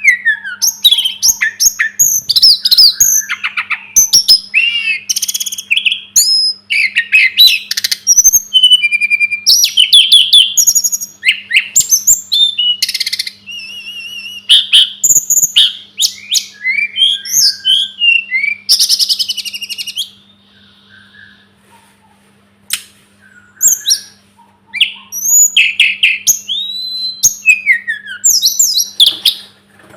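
A tledekan gunung (sulingan gunung) songbird singing a fast, varied song of high whistled slides, trills and chirps, phrase after phrase. It pauses for a few seconds about two-thirds of the way through, then starts again.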